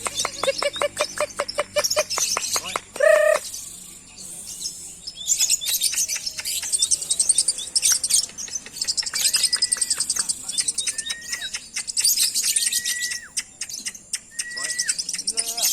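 Lovebirds singing in fast chattering trills, with short level whistled notes repeating from about nine seconds in.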